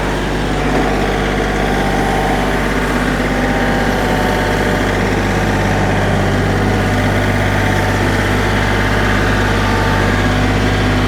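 Engine of the pallet-fork lifting machine running steadily at idle while it hoists a four-cylinder boat engine out of the hull on a chain.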